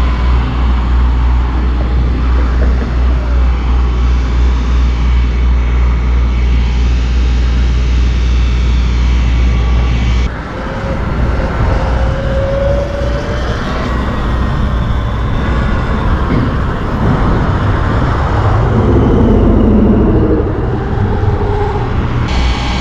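Wind rushing over the microphone and road noise while riding a Sur-Ron electric dirt bike, with a heavy low rumble that changes abruptly about ten seconds in.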